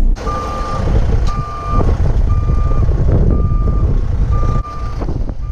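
Truck backup alarm beeping steadily about once a second, six beeps, over the low rumble of a running diesel engine: a truck reversing on the paving job.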